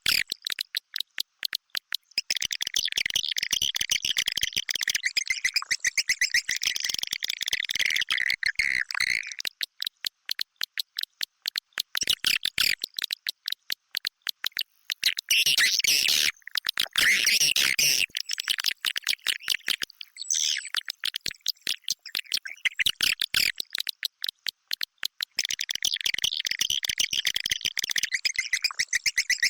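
Edible-nest swiftlet lure call: swiftlets twittering in dense, rapid chirps and clicks, in bouts broken by short pauses.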